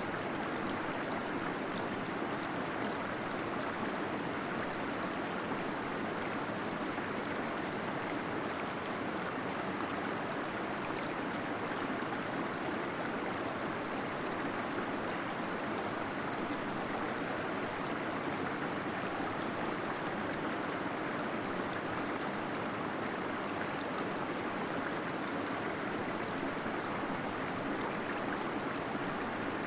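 Small waterfall in a cave, a steady, unbroken rush of flowing and gurgling water.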